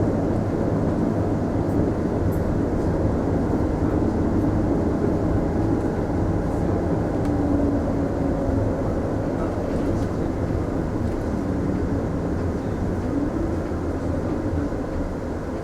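Inside a Mitsubishi Fuso Aerostar city bus under way: a steady engine hum and road rumble, easing slightly near the end.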